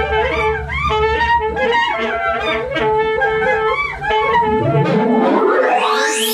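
Improvised music for saxophones and electronics: short saxophone figures over a steady, pulsing tone and a low throb. Over the last second and a half a long sweep rises in pitch.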